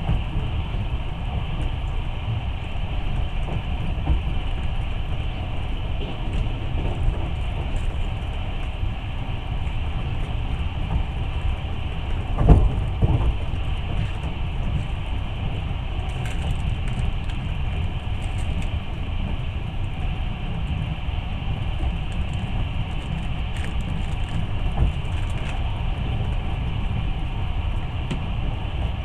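Long-distance passenger train running on the track, heard from inside the carriage: a steady low rumble, with a brief cluster of louder wheel knocks about twelve seconds in.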